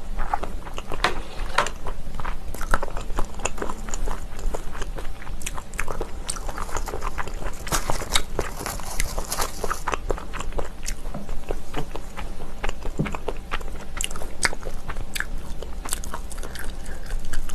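A person chewing and biting food close to the microphone: a steady run of small, irregular crunches and wet mouth clicks.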